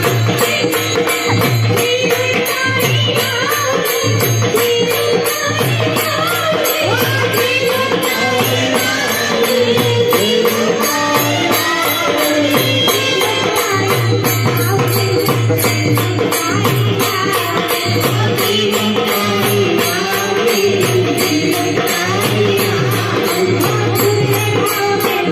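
Marathi devotional kirtan music: jingling percussion keeps a fast, even beat over a pulsing low drum, with a wavering sung melody on top.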